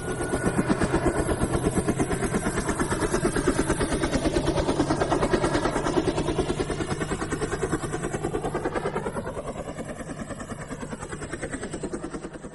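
Dragonfly's wings buzzing in a fast, even flutter, with a drone whose pitch wavers up and down.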